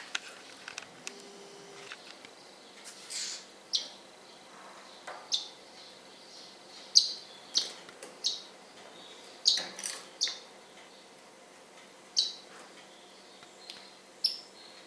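Pet birds giving short, high chirps one at a time at irregular intervals, the loudest a little over halfway through.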